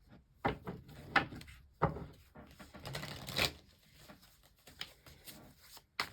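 Tarot cards being handled and shuffled: irregular papery flicks, snaps and rustles, several of them sharp.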